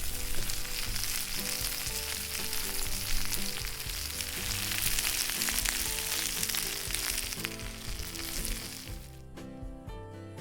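Food sizzling and frying in a hot cast-iron skillet, a dense steady hiss that starts abruptly and dies away about nine seconds in. Background music plays beneath it.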